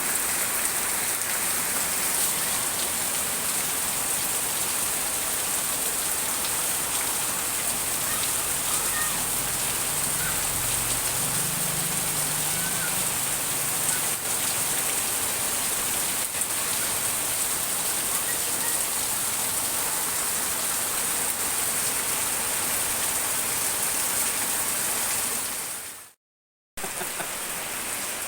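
Heavy tropical rain pouring down steadily, a dense even hiss. A faint low rumble comes in about ten seconds in, and the sound cuts out to silence for a moment near the end.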